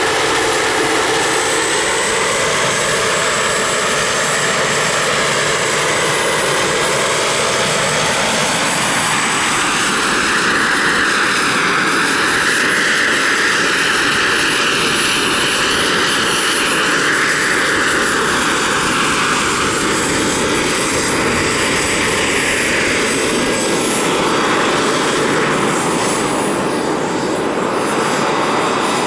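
Radio-controlled model helicopter flying, its motor and rotor whine running continuously and shifting in pitch, swelling through the middle and easing near the end.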